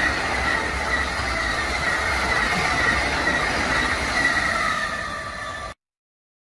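New-generation Amtrak Acela (Alstom Avelia Liberty) trainset passing close by: a steady rush of wheels on rail with a high, slightly wavering whine through it. It fades and cuts off suddenly about a second before the end.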